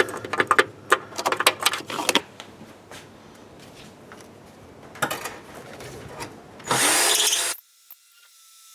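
A handheld power tool briefly grinds out a hole to enlarge it for a wire, loudest for under a second near the end and cutting off suddenly. Before it comes a run of clicks and knocks from tool handling.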